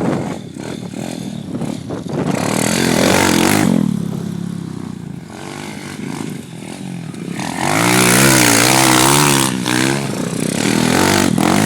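Pit bike engine revving, its pitch rising and falling, louder twice, the second time with quick repeated blips of the throttle.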